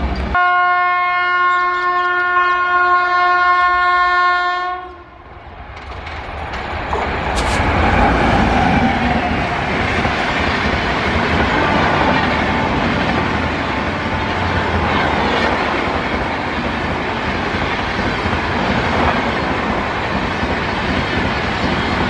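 An Indian Railways locomotive horn blows one steady held note for about four and a half seconds. Then, after a short lull, a train comes up and runs past at speed with a steady rush of wheel and rail noise.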